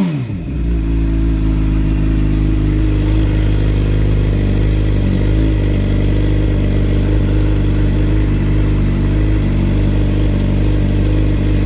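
2011 Suzuki GSX-R 750's inline-four engine idling steadily through a Two Brothers shorty slip-on exhaust, with the catalytic converter cut out. It settles down from a rev at the very start.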